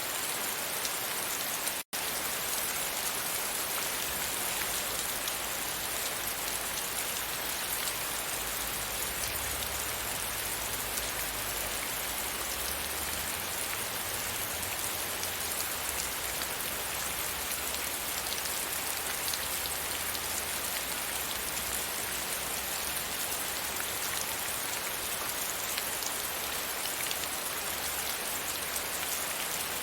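Steady rain falling against a window: an even, dense hiss of drops. The sound cuts out for an instant about two seconds in.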